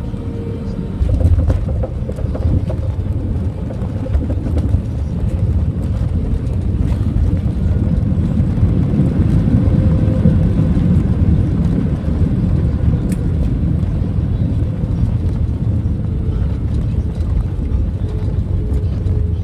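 Deep cabin rumble of an Airbus A321 landing, with engine and airframe noise inside the passenger cabin. It jumps suddenly louder about a second in, swells toward the middle and then eases off a little.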